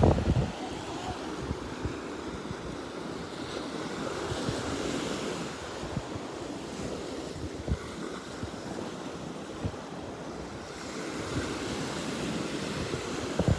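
Ocean surf washing onto the beach in a steady hiss, with wind buffeting the microphone in low rumbling gusts.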